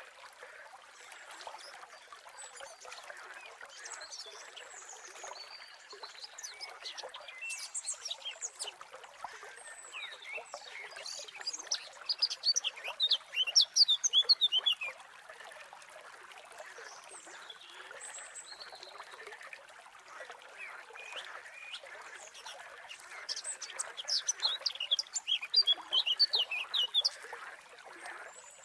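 Small birds chirping in quick series of high, falling notes, loudest in two bursts of a few seconds each. Under them runs a steady background of outdoor nature sound.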